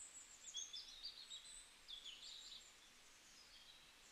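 Near silence, with faint high chirps of birds in the background, mostly in the first half.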